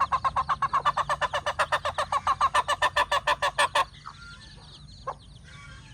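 A domestic fowl calling in a rapid, even run of short calls, about nine a second, that stops abruptly a little before four seconds in. Faint high peeps of chicks follow.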